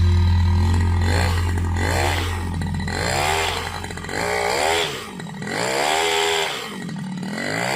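30cc two-stroke brush-cutter engine driving a propeller, revved up and back down about once a second, six times over, its pitch rising and falling with each blip of the throttle.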